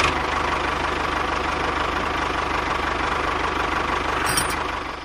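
Small motor of a DIY mini tractor running steadily with a fast, even buzzing rattle, starting abruptly and stopping near the end.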